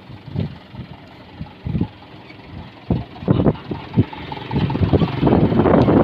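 Truck engine running, with irregular rumbling gusts that grow louder and more continuous over the last second or two.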